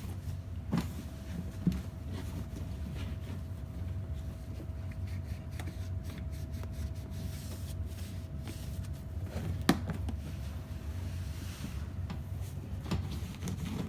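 A few light knocks and handling sounds on a dishwasher as it is being wiped down, over a steady low hum. The loudest knock comes about ten seconds in.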